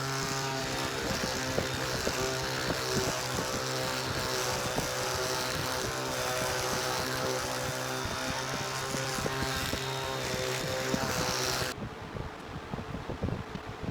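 Electric power polisher running steadily while buffing a high-gloss compound on a wooden tabletop. It switches off about twelve seconds in, leaving a few light knocks and handling noises.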